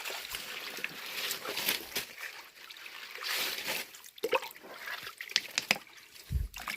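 Shallow water trickling and sloshing, with small splashes and scattered knocks as hands work through water and stones.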